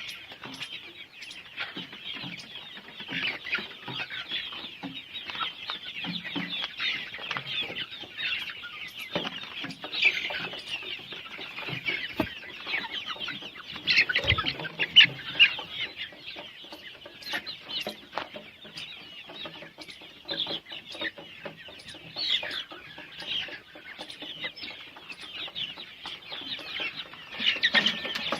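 A flock of young Golden Misri chickens, about 65 days old, calling all at once: many short, high overlapping calls that never let up.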